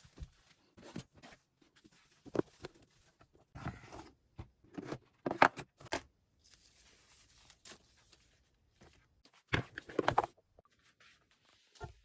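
Handling noise: irregular short rustles and crackles with a few clicks, loudest about two, five and ten seconds in.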